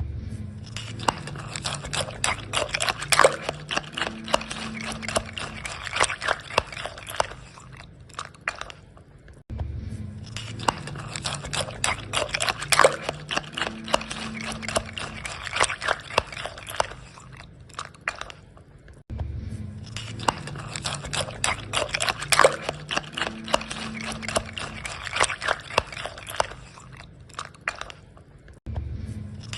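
Spoon stirring cereal in milk in a bowl: quick clinks and crunchy, wet rustling. The same stretch of about nine and a half seconds repeats three times, each repeat starting with a low thud.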